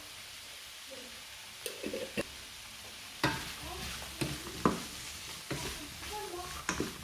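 Food sizzling in a frying pan as it is stirred, with the utensil knocking against the pan several times from about two seconds in.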